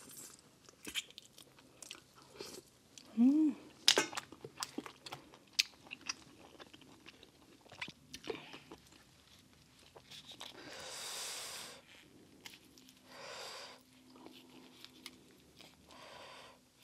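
Close-miked eating of boiled shellfish: chewing and biting, with many sharp clicks and cracks of mussel and crawfish shells handled and broken apart. There is a short hummed 'mm' about three seconds in.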